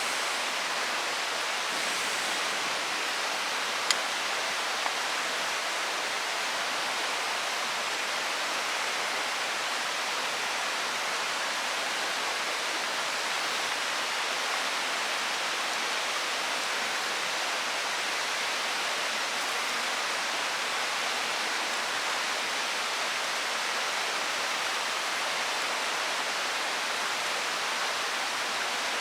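A mountain stream rushing steadily. A sharp click sounds about four seconds in, and a fainter one follows a second later.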